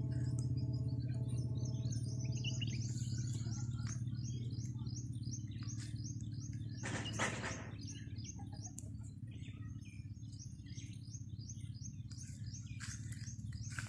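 Small birds chirping in quick, repeated high notes, about four a second, over a steady low mechanical hum. A brief burst of rustling noise comes about seven seconds in.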